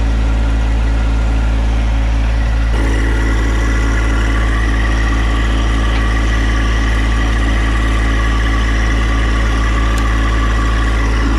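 John Deere 1025R compact tractor's three-cylinder diesel engine running steadily, its note shifting slightly about three seconds in.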